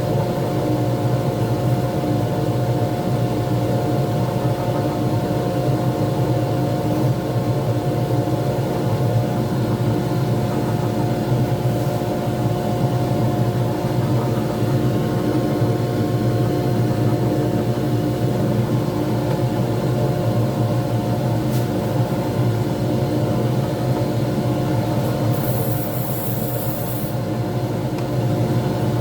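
Lathe running steadily with a pen blank spinning, its motor giving an even hum with several steady tones. Near the end a short high hiss lasts about a second and a half.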